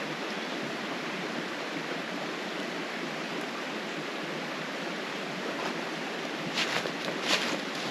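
Steady rushing of a flowing creek, with a few sharp crackles near the end.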